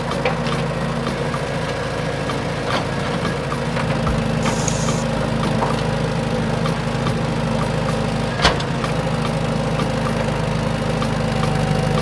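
Toy remote-control excavator's small electric motors and plastic gearing running with a steady whirr, scattered clicks from its tracks and gears, and a single knock about two-thirds of the way through.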